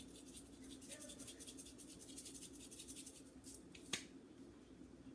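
Faint, fast clicking of a spice container dispensing seasoning over raw salmon pieces, several clicks a second, stopping after about three and a half seconds, followed by a single sharp click.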